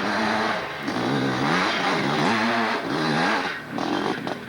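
Hill-climb motorcycle engine revving in repeated surges, its pitch rising and falling about once a second.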